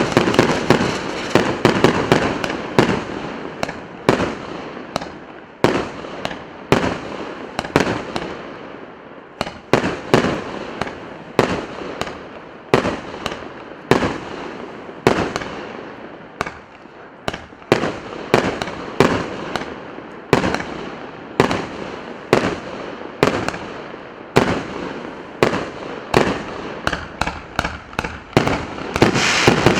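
Consumer fireworks battery (cake), the P8312 "Мировой салют", firing a long rapid series of shots, about two a second, each with a sharp report. A denser crackling barrage comes at the start and again near the end.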